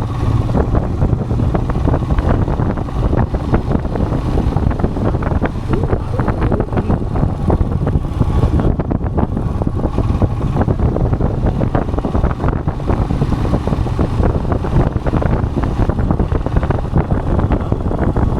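Royal Enfield Himalayan motorcycle running steadily while being ridden, its engine note low under heavy wind buffeting on the microphone.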